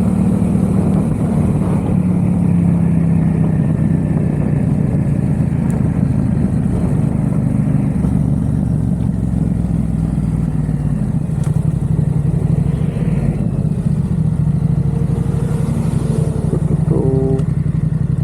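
Yamaha XSR700's parallel-twin engine and aftermarket MIVV exhaust running steadily under way, with only small changes in pitch. A brief pitched tone sounds near the end.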